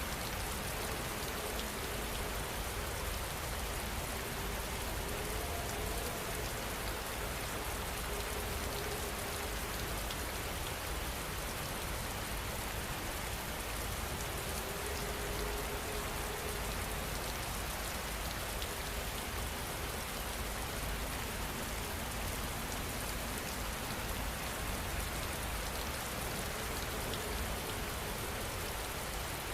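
Steady rain falling, an even hiss of many drops on surfaces with no letup.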